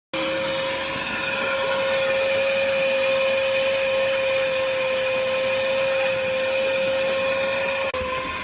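Car-wash equipment running steadily under electric-motor power, with a constant whine over a strong hiss. The sound dips briefly near the end, and the whine then settles slightly lower.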